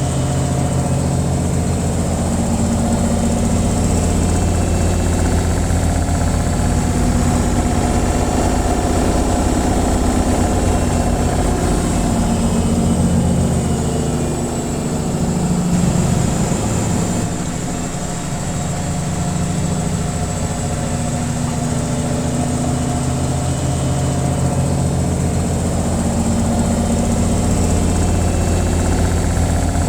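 Washing machine on its spin cycle: a steady low hum and rumble from the spinning drum, which dips briefly about halfway through and then picks up again.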